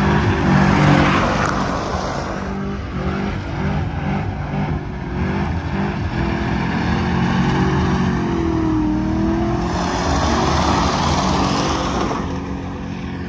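Pickup truck doing a burnout: engine held at high revs while the tires spin against the pavement to wear them until they pop. It is held in third or fourth gear on a stock transmission.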